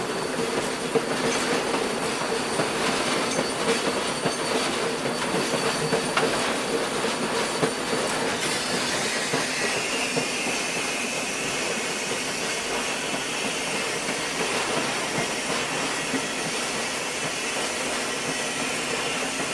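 A train moving on the rails: steady running noise, with a thin, high squeal coming in about halfway through.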